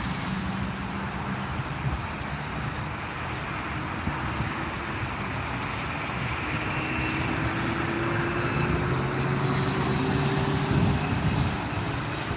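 Jet aircraft taking off, a steady engine roar that slowly grows louder, with a faint whine rising in pitch partway through.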